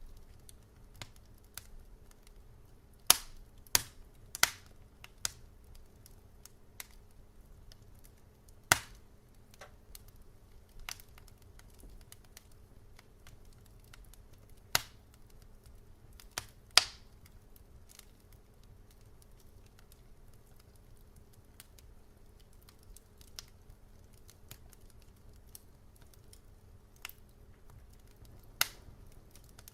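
Wood fire crackling in a fireplace: sharp pops and snaps at irregular intervals, a few of them loud, over a faint steady low rumble.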